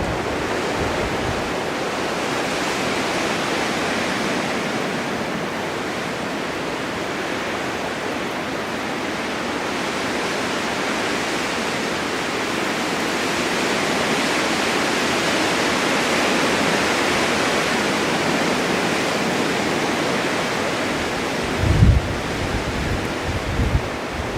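Blizzard wind driving blowing snow: a steady rushing hiss that slowly swells and eases. Near the end, gusts buffet the microphone with low rumbling thumps.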